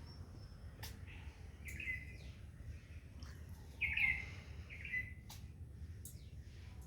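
Indian ringneck parrot giving short chirping calls three times, the loudest about four seconds in, with a few sharp clicks between them over a steady low background rumble.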